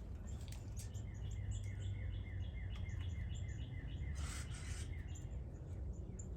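Birds at a feeder calling: scattered sharp chip notes, which fit northern cardinals, with a run of quick repeated notes for a couple of seconds early in the middle. A brief rushing noise comes about four seconds in, over a steady low background rumble.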